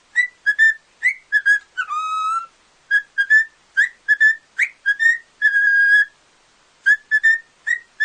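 A parrot whistling a tune in short clear notes, about two a second. There are two longer held notes: a lower one about two seconds in, and a steady one near the six-second mark.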